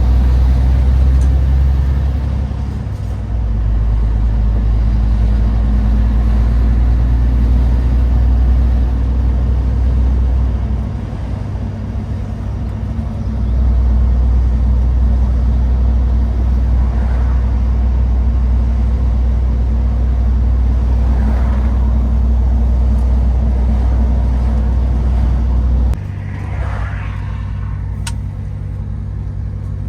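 MAN TGX 18.510 truck's straight-six diesel engine running under way with a steady low drone. It eases off briefly about three seconds in and again around eleven seconds, and steps down to a quieter, lower note near the end.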